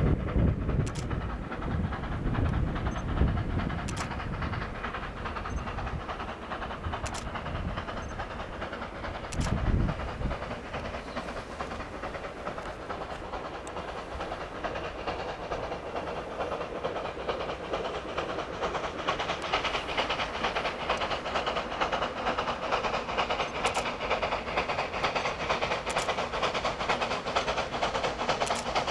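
Narrow-gauge C2 steam locomotive working a train, with steam hiss and the fast rattle of wheels and wagons on the track, which grows louder in the second half. There are a few low thumps near the start and again about ten seconds in.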